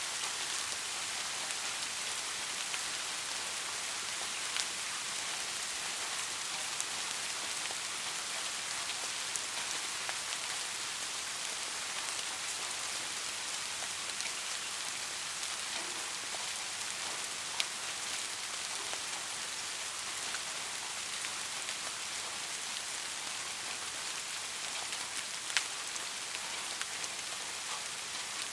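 Steady rain falling, an even hiss with now and then a single louder drop striking close by.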